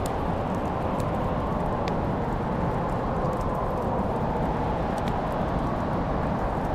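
Wood fire burning in a fireplace: a steady low rumble of flames with a few sharp crackles and pops scattered through it.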